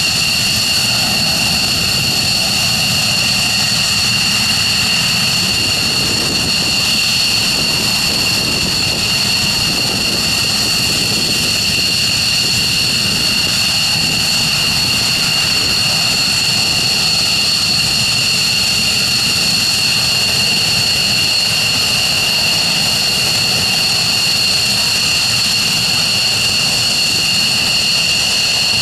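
F-15 fighter jets' Pratt & Whitney F100 turbofan engines running steadily on the ground, a continuous loud roar with two high whining tones held level throughout.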